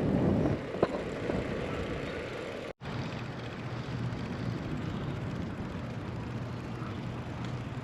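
Wind and road noise while riding a Brompton folding bicycle: a steady rush, louder in the first half-second, with one click about a second in. The sound drops out for an instant near three seconds in, then the rush carries on quieter.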